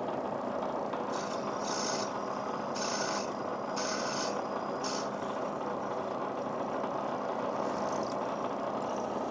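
A machine tool running steadily while a 1/8-inch drill bit is fed into the workpiece, with about five short scraping bursts of cutting in the first five seconds and fainter ones near the end.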